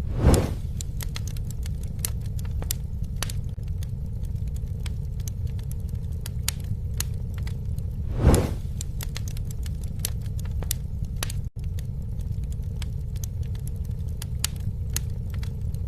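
Wood fire crackling and popping over a steady low rumble, with a louder whoosh right at the start and again about eight seconds in.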